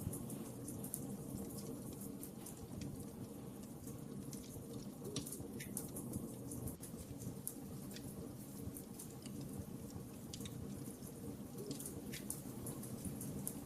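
Wood fire burning in a fireplace: a steady low rumble of flames with sharp crackles and pops at irregular moments.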